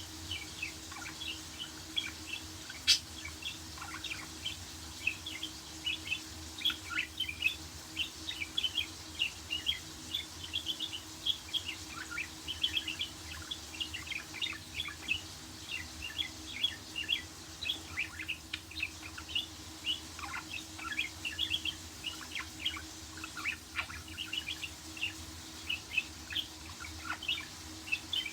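Pet budgerigars (budgies) chirping and warbling in a rapid, continuous stream of short high chirps, with one sharp click about three seconds in and a steady low hum underneath.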